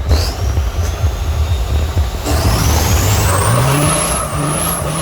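Turbocharged big-rig truck engine accelerating hard, with a heavy low rumble. About two seconds in, a high turbo whistle rises steeply along with the engine note, then dips briefly twice near the end.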